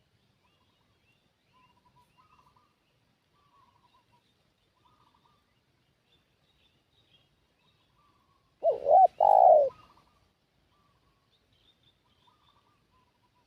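A spotted dove gives one loud coo about nine seconds in: a short note, then a longer one. Faint, high chirping of small birds runs underneath.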